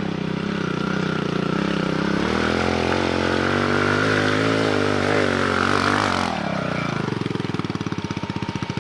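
Dirt bike engine under throttle, revs wavering and climbing for several seconds, then dropping sharply about six seconds in to a slow, uneven chugging that slows further as the engine lugs down. It sounds like the bike bogging, with the clutch mishandled.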